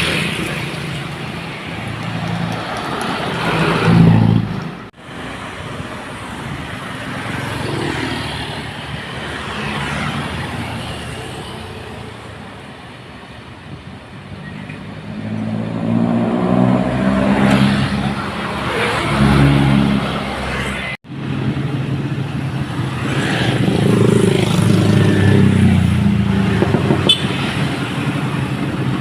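Dump truck engines running as the trucks pass one after another, swelling and fading several times, loudest a few seconds in and through the second half. The sound breaks off abruptly twice, about five and twenty-one seconds in.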